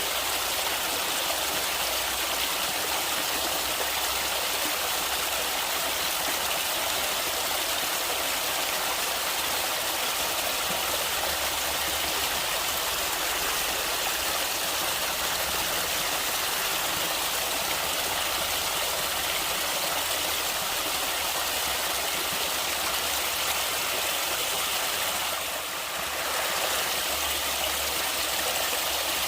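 Steady rushing of flowing stream water, even and unbroken, dipping briefly near the end.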